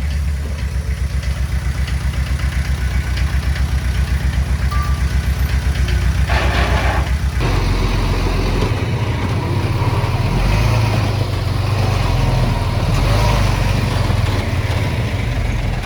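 Heavy-equipment diesel engine running with an even, rhythmic low throb. About seven seconds in, just after a brief hiss, it shifts to a smoother, higher note.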